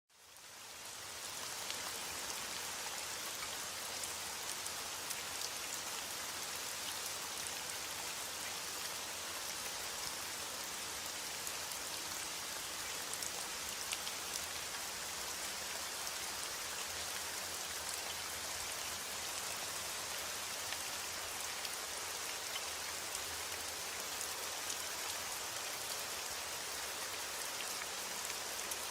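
Heavy rain falling steadily, with scattered drops ticking, fading in over the first second or so.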